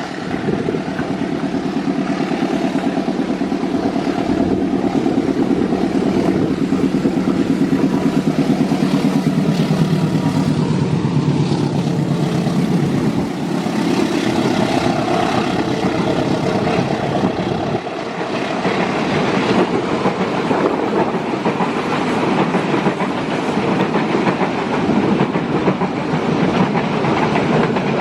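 An executive-class passenger train running past. A pitched engine hum is strongest for the first ten seconds and drops in pitch, then comes a steady rumble and clatter of the carriages' wheels on the rails.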